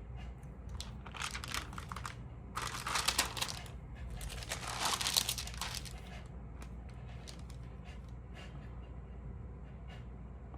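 Crinkling and rustling of stamp pages or stamp sleeves being handled, in three bursts over the first six seconds, then only faint ticks.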